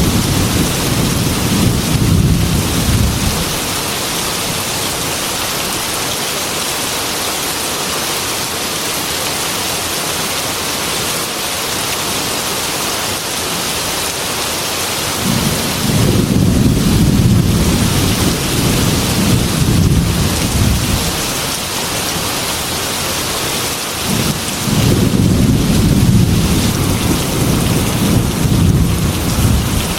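Heavy rain falling steadily, with low rolling thunder three times: a rumble dying away a few seconds in, another starting about halfway through and lasting several seconds, and a third building near the end.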